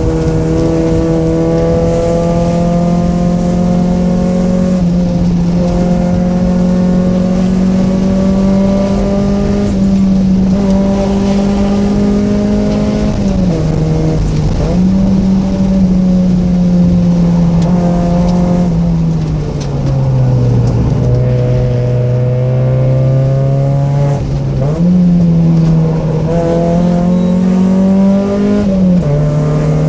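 Mazda Miata's 1.6-litre four-cylinder engine with aftermarket headers and exhaust, driven hard on a winding road. Its pitch climbs in each gear and drops suddenly at upshifts. It falls away through the middle as the car slows, then jumps up on a downshift and pulls again.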